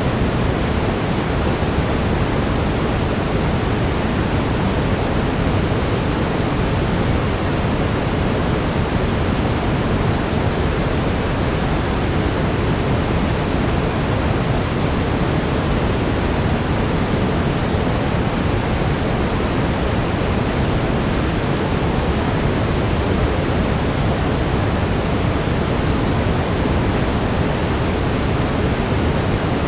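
Steady brown noise: an unchanging, even rushing hiss weighted toward the low end, with no breaks or events.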